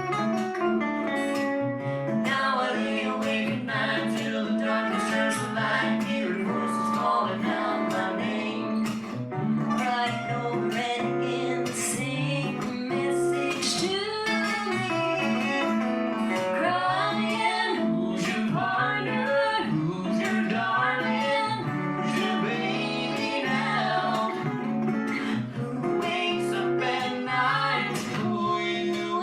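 Acoustic guitar strummed with a singing voice over it: a song performed live.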